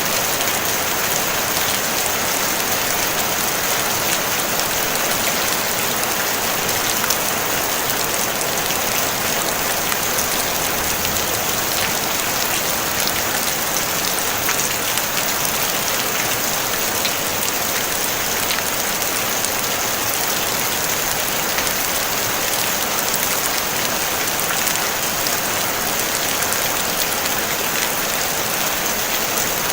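Steady rain falling on a tin roof, an even hiss of many fine drop ticks with no thunder.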